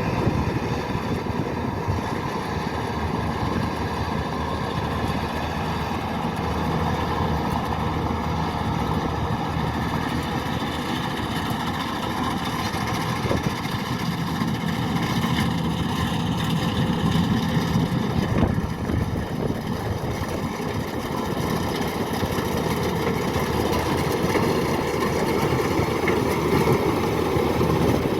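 Kubota DC-105X combine harvester's diesel engine running steadily.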